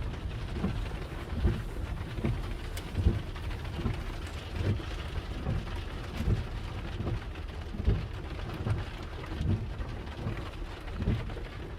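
Steady rain in a thunderstorm, with irregular low thumps every second or so.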